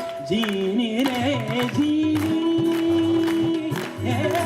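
Sufi devotional song: a voice singing a wavering, ornamented melody, then holding one long note for nearly two seconds, over steady drum beats.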